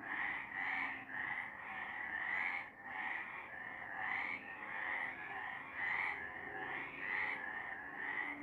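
A chorus of several frogs calling: short croaking calls repeating about twice a second and overlapping one another.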